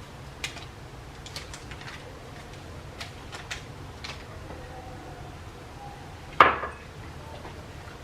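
A utensil clinking and scraping against a mixing bowl while semolina dough for harcha is being stirred: scattered light clicks, then one louder knock about six seconds in.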